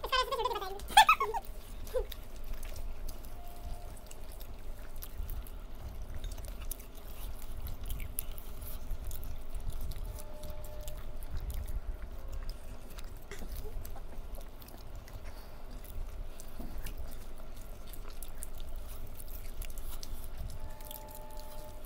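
Close-up chewing and mouth noises of people eating with their hands, with many small wet clicks and smacks. A few words are spoken at the very start.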